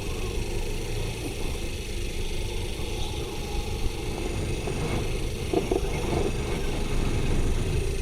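2024 Kawasaki Ninja 500's parallel-twin engine running steadily as the bike is ridden at low speed, getting slightly louder near the end.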